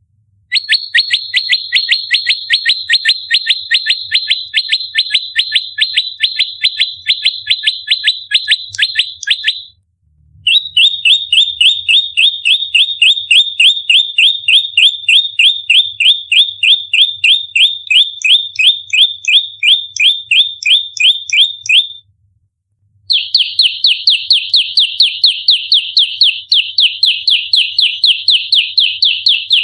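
Prenjak lumut giving its rapid-fire fighting call: long runs of sharp chips, about five a second, each falling in pitch. Three runs of around ten seconds each, with short breaks about ten and twenty-two seconds in.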